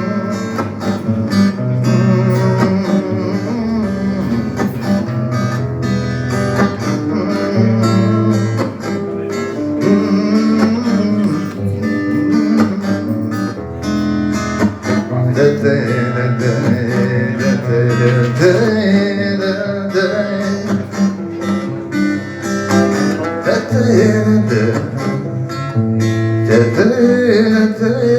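Instrumental break in a song: plucked acoustic guitar over held bass notes that change every second or two, with a melody line coming in about halfway through.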